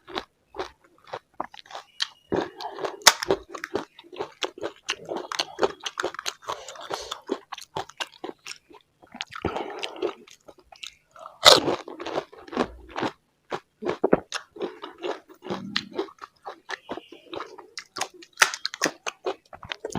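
Close-up eating of panipuri: crisp puri shells crunching and cracking between the teeth, with chewing in between, in irregular bites. The loudest crunch comes about halfway through.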